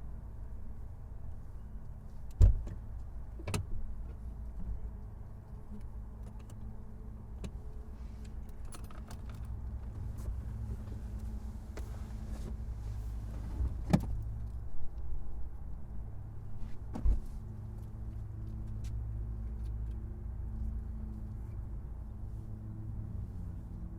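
A car's steady low rumble, with a handful of sharp clicks and knocks on top: one loud knock a few seconds in, another soon after, and a cluster of clicks past the middle.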